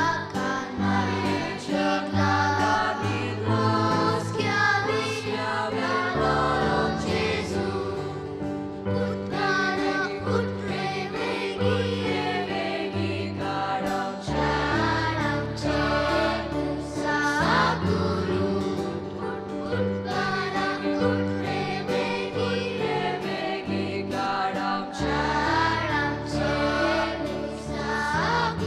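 A choir singing a Christmas carol to an instrumental accompaniment, with held bass notes changing every few seconds.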